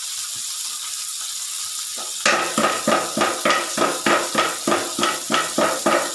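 Spice paste frying in an aluminium wok, a steady sizzle. From about two seconds in, a quick run of about a dozen sharp knocks with a ringing edge comes in, some three and a half a second.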